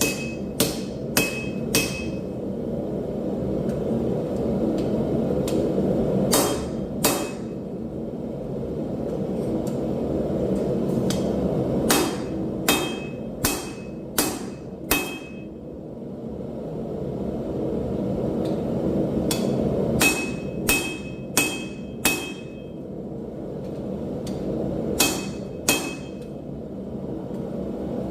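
Hammer blows on hot steel over an anvil, forging railroad scrap: sharp ringing strikes in short runs of two to six, about two a second, with pauses of several seconds between runs. A steady low rushing noise runs underneath.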